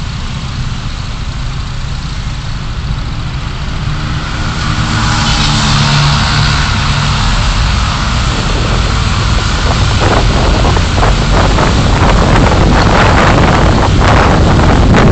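Car engine running low at first, then growing louder as the car pulls away and gathers speed, with rising road noise and wind gusting on the microphone in the second half.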